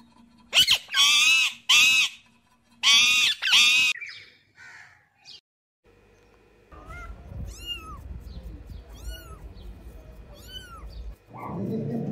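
Animal calls: four loud, high-pitched wavering calls in the first four seconds, then a run of short, evenly spaced arching calls over a low rumble.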